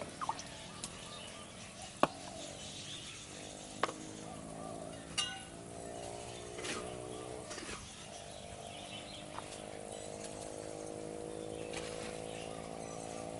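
Sharp, separate clicks and knocks of bricks and tools handled during bricklaying with wet cement, about five of them in the first seven seconds, the loudest about two seconds in, over a steady low hum.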